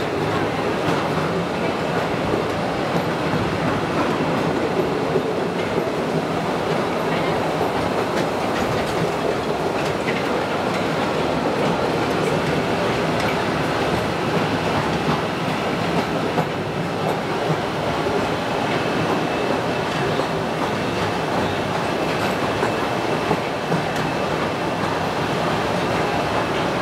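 Postojna Cave train running steadily along its narrow-gauge track: a continuous rattling rumble of wheels on rails, heard from on board an open carriage.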